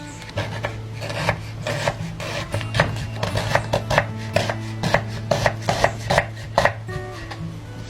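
Knife chopping food on a cutting board in quick, uneven strokes, about two or three a second, stopping shortly before the end.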